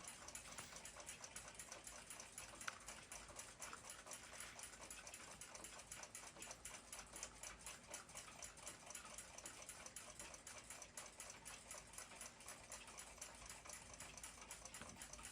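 Faint, rapid, even ticking of a running clock or watch movement, with one sharper click about three seconds in.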